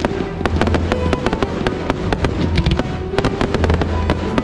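Aerial fireworks shells and crackling stars going off in rapid succession, dozens of sharp reports close together, over music with a held low bass playing with the display.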